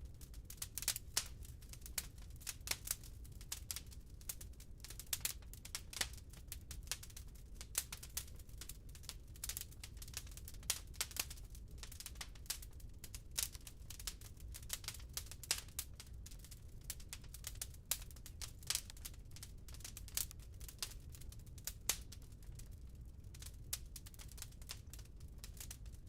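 Firewood burning in a fireplace, crackling and popping irregularly, several small snaps a second with a louder pop every second or two, over a steady low rumble.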